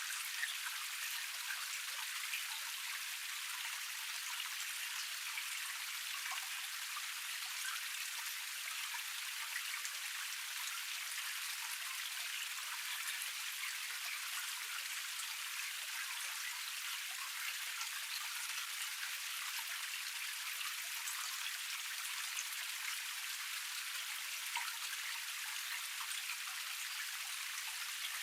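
Water of a small forest cascade splashing and trickling over rocks: a steady, thin spattering of many small drops, without any low rumble.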